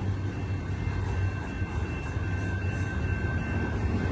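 Freight cars rolling past on the rails in a steady low rumble, with a faint steady high whine on top.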